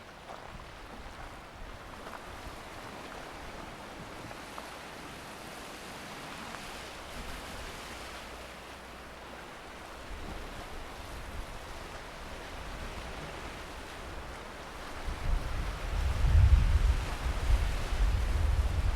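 Surf washing onto a beach as a steady wash of sea noise. From about three-quarters of the way in, gusts of wind buffet the microphone with a low rumble that becomes the loudest sound.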